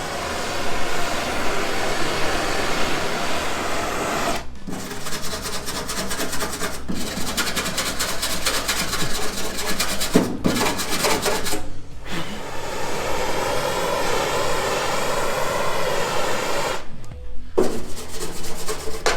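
Angle grinder abrading the rusty steel of a car's front sill section, a steady harsh grinding noise. It stops suddenly for a moment several times.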